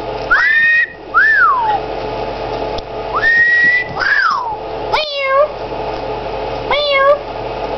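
Pet parrot whistling: two pairs of clear whistles, each a rising note followed by a falling one, then two short meow-like calls about five and seven seconds in, over a steady background hum.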